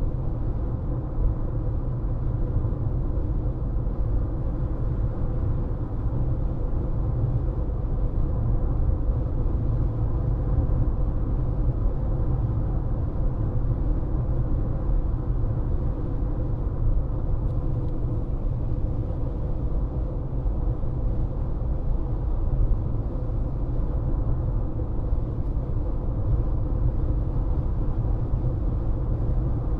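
Steady road noise of a car driving at a constant speed, heard from inside the cabin: a low, even rumble of tyres and engine with a faint steady hum.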